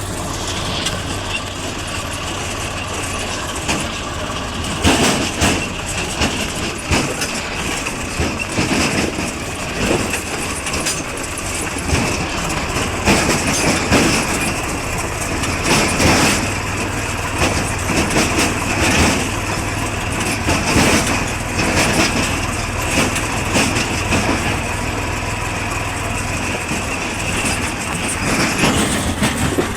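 Swaraj tractor's diesel engine running steadily, with frequent clanks and rattles over it. A steady high whine sets in about a second in and stops near the end.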